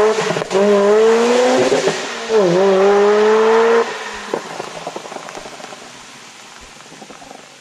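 Subaru Impreza GC STI's flat-four boxer engine revving hard as the car pulls away, the pitch climbing, dropping at an upshift about two and a half seconds in, then climbing again. The engine sound cuts off at about four seconds, leaving a hiss of rain and tyre spray that slowly fades.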